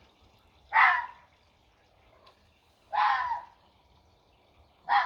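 An animal outdoors calling three times, short noisy calls about two seconds apart.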